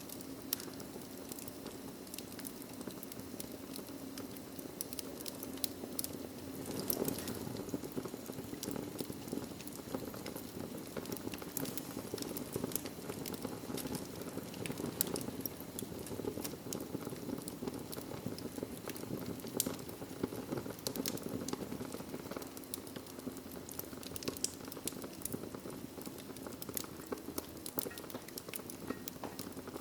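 Wood fire burning in a fireplace: a steady low rush of flames with frequent small crackles and snaps, and a few louder pops scattered through.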